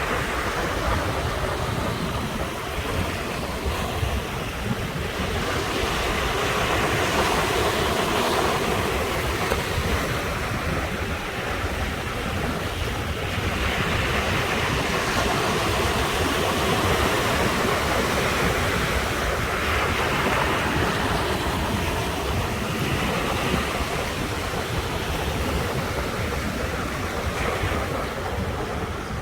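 Ocean waves breaking on a rocky shore, coming in swells every few seconds, with wind buffeting the microphone.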